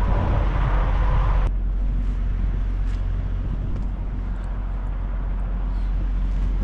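Semi-truck diesel engine idling with a steady low hum. A louder hiss over it stops abruptly about a second and a half in.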